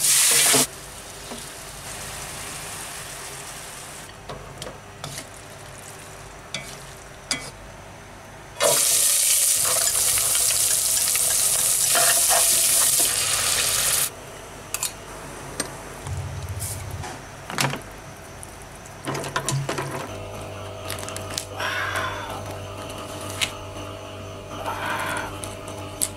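Stir-frying in a wok: garlic and shallots sizzling in hot oil as they are stirred, loudest for about five seconds in the middle. Later, water is poured into a pot of lemongrass, and near the end come softer eating sounds.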